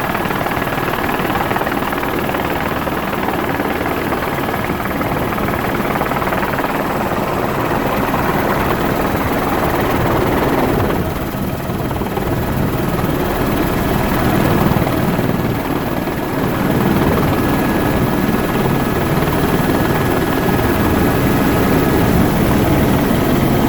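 Helicopter running steadily, a constant rotor and engine noise with a thin high whine over it; no gunshots.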